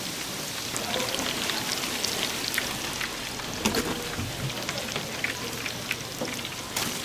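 Food deep-frying in hot oil: a steady, dense crackle of many fine pops.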